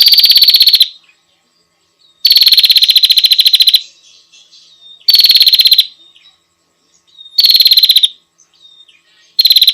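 Female prinia (prenjak) calling in loud trills of fast repeated notes, each lasting a second or so. Four trills come in a row, a fifth begins near the end, and soft chirps fill the gaps between them.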